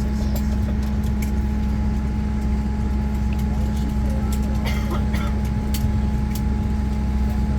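Steady cabin drone inside a parked Boeing 787-9 Dreamliner: a low, even hum with a thin steady whine over it, from the aircraft's running systems and ventilation before pushback. A few faint clicks and a snatch of distant talk come through about five seconds in.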